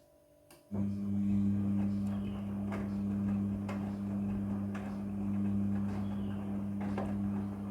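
Midea front-loading washing machine: a click about half a second in, then a steady electrical hum from a pump or motor starts suddenly, with irregular light knocks over it.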